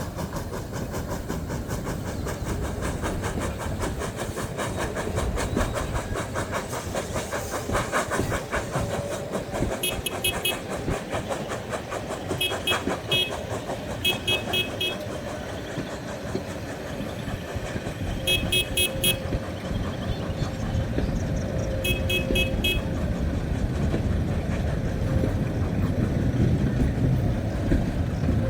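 Heritage train running past with a steady rhythmic clatter. Five short bursts of high-pitched toots sound over it at irregular intervals.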